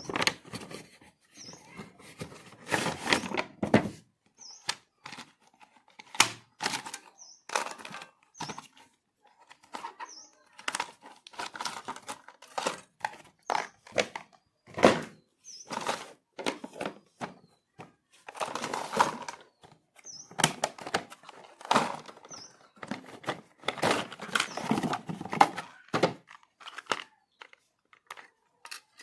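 Packaging being handled and torn open: irregular knocks and thunks with bursts of rustling and tearing. Faint short high chirps come every few seconds.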